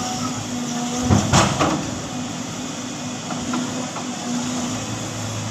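Heavy truck engine running, with a short, loud burst of clatter and hiss about a second in.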